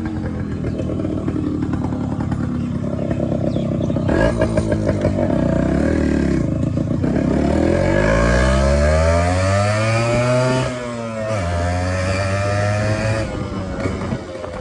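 Hero Splendor's single-cylinder four-stroke engine pulling away hard in first gear. Its note climbs steadily for several seconds, then drops sharply and runs on at a steadier pitch.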